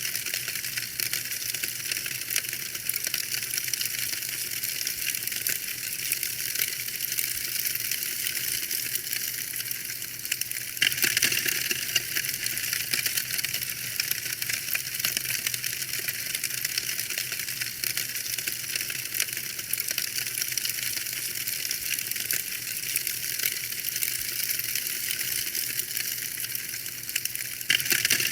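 Wood fire crackling in a fireplace: a steady stream of small snaps and pops over a soft hiss, with a brief louder flurry about eleven seconds in and again near the end.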